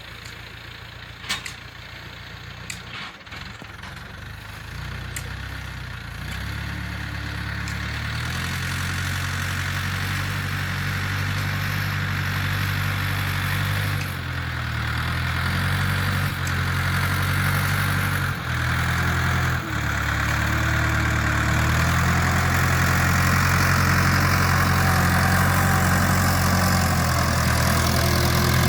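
Farm tractor engine running steadily, growing louder over the first several seconds and then holding, with a few brief dips. A few sharp clicks come in the first few seconds.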